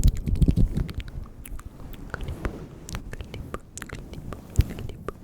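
Close-miked ASMR mouth sounds: wet clicks and smacks, dense and louder in the first second, then sparser.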